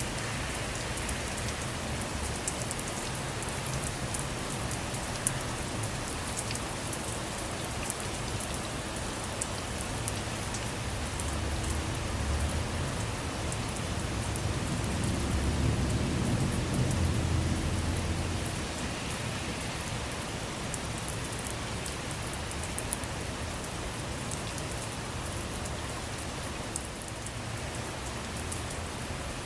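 Steady rain falling on a car, with many sharp drop ticks on the roof and windows. A low rumble of distant thunder swells and fades about halfway through.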